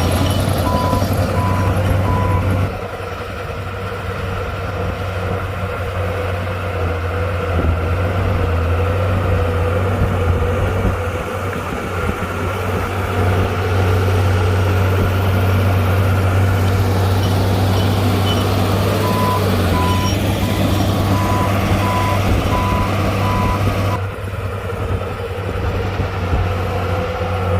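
A Komatsu D60-P bulldozer's diesel engine runs steadily under load, easing off about three seconds in. A reversing alarm beeps in even pulses at the start and again for several seconds about two-thirds of the way through.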